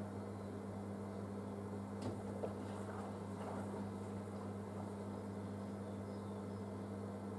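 Panasonic washing machine running a wool cycle: a steady low hum, with a few soft knocks and swishes about two to three seconds in.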